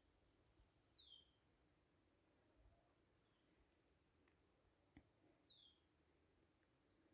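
Faint birdsong: a bird repeating short high chirps, some falling in pitch and some held briefly, about one or two a second.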